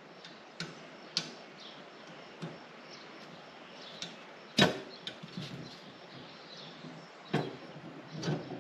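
Scattered clicks and knocks of metal rack parts and screws being handled while a shelf bracket is unscrewed, with one louder knock about halfway through.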